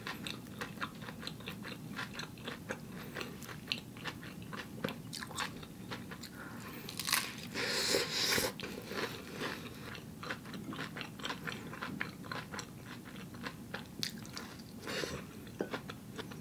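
A person biting into and chewing a burger, a steady run of small clicks from the chewing. A louder crunchy bite comes a little past the halfway point.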